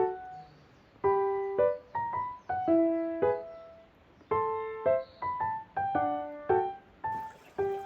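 Background music: a gentle piano melody of single struck notes and chords, each note dying away.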